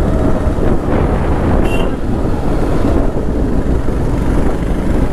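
Suzuki Hayabusa's inline-four engine running steadily under way on its stock exhaust, with wind buffeting the microphone.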